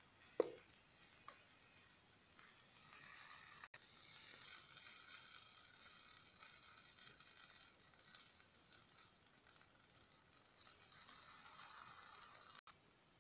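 Faint sizzling of eggplant rings frying in oil in a pan, with a single sharp clink of a metal spoon a moment after the start.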